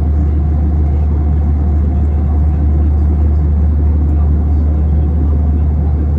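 Steady, loud drone inside an Airbus A321 airliner cabin in flight: jet engine and airflow noise with a deep, even hum and a faint steady tone above it.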